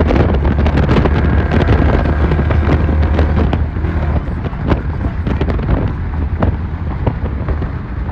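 A vehicle running with heavy wind buffeting the microphone: a steady low drone under a noisy rush, with many scattered sharp crackles and knocks. The noise is densest in the first half and eases slightly after about four seconds.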